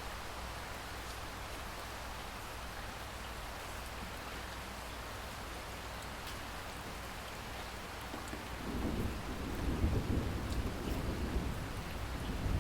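Steady heavy rain hissing; about two-thirds of the way in a low thunder rumble rolls in, swells and keeps grumbling under the rain to the end.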